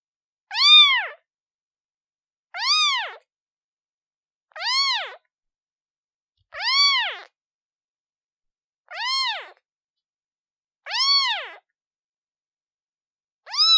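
Newborn kitten meowing for its mother: seven short high-pitched meows, each rising and then falling in pitch, about one every two seconds.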